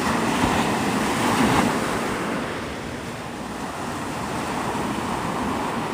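Surf washing onto a sandy beach, a wave swelling louder over the first two seconds and then easing off.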